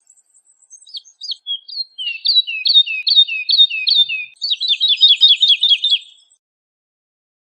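Woodlark singing one song phrase: a few separate notes, then a run of repeated falling notes that speeds up into a quicker series of falling notes before stopping about six seconds in.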